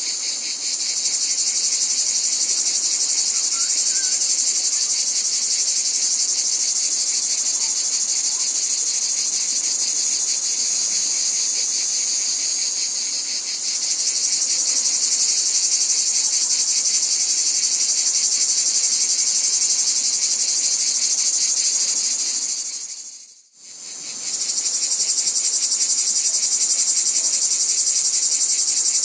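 A dense chorus of insects trilling: a steady, high-pitched, fast-pulsing buzz. About 23 seconds in it fades out almost to nothing for a moment, then comes back at full strength.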